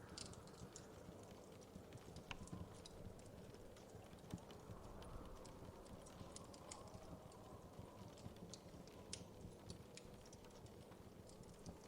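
Faint wood fire crackling: irregular small pops and snaps, a few a second, over a low steady rumble.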